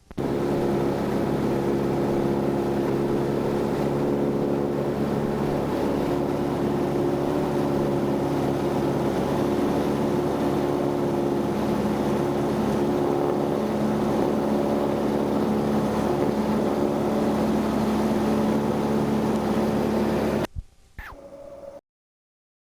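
Small propeller airplane engine droning steadily on camcorder audio. It cuts off suddenly about twenty seconds in, with a couple of clicks, and then there is silence.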